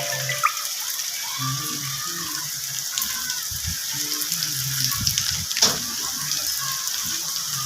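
Steady rain falling, an even hiss with occasional louder drips, and faint low sounds underneath.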